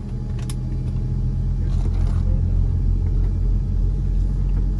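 Low, steady rumble inside the cabin of a Boeing 787-9 with its GEnx engines running, with a light click about half a second in.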